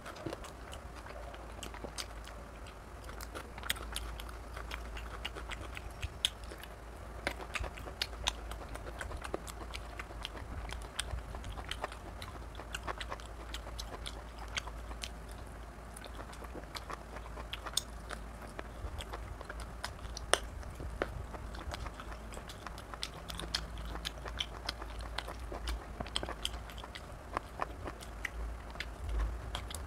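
Close-miked eating sounds of mutton curry and rice eaten by hand: wet chewing and lip smacks, with fingers squishing rice into the gravy, making many short sharp clicks several times a second.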